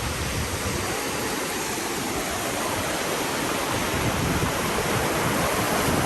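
Sea water washing at a shallow beach: a steady rushing noise of small waves that swells slightly near the end.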